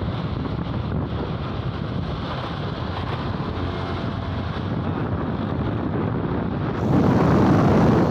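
Wind buffeting the microphone over the steady noise of a moving vehicle on the road, growing louder near the end.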